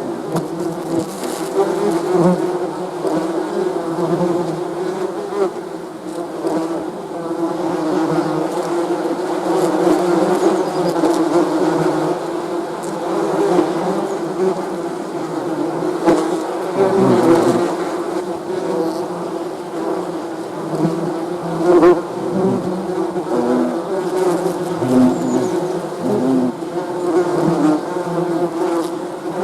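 A swarm of bees buzzing: many wingbeats blending into a steady, dense hum, with individual bees rising and falling in pitch as they pass close.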